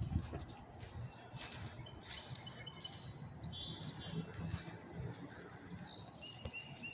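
Small birds chirping, with short high whistled notes and a quick trill about three seconds in, over faint outdoor background noise.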